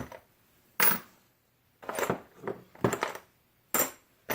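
Loose metal washers and small parts clinking as they are picked through by hand, a handful of separate sharp clinks with short pauses between.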